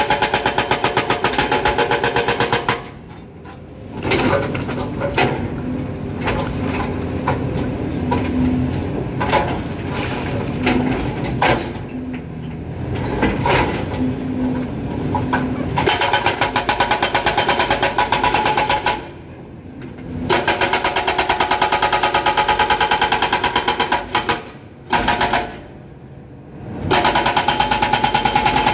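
Excavator-mounted hydraulic breaker hammering rock in several bursts of rapid, even blows, stopping briefly between bursts while the excavator's engine keeps running with scattered knocks and clanks.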